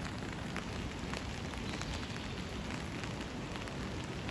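Floodwater rushing steadily over the ford, a continuous noise with faint crackling splashes.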